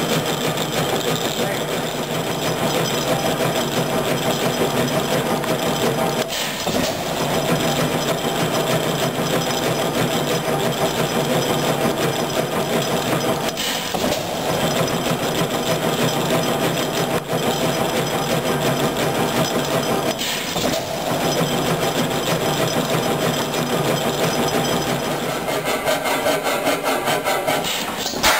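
Columbus cam-stopper hit-and-miss engine running: a steady, rapid mechanical clatter that dips briefly about every seven seconds.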